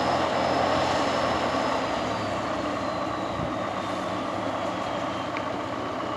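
Competition truck's engine running steadily, with a thin high whine slowly falling in pitch over the few seconds.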